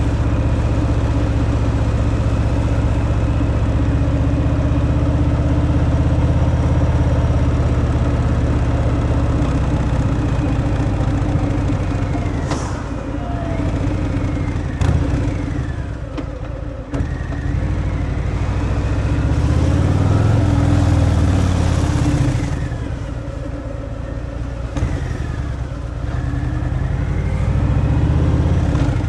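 Harley-Davidson Fat Boy's V-twin engine through its stock exhaust while riding, running steadily at first, then easing off and picking up again several times with the pitch sliding down and up through the second half.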